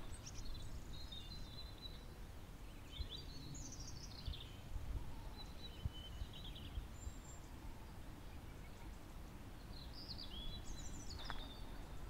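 Wild birds singing in several short chirping phrases a few seconds apart, over a low steady rumble.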